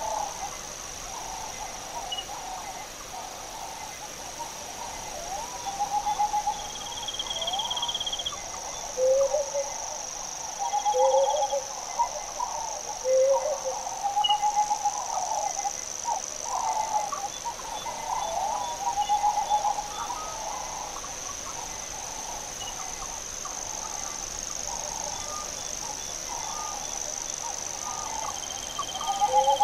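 Birds calling: a string of short swooping and warbling calls, some louder ones about nine to fourteen seconds in and again near the end, over a steady high-pitched hiss.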